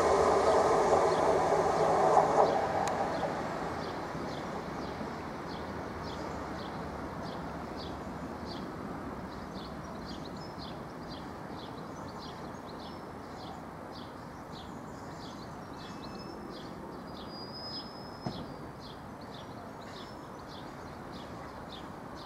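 Class 153 diesel multiple unit drawing away, its engine and wheels fading over the first few seconds to a faint rumble. From about six seconds on, a small bird gives a short high chirp about twice a second.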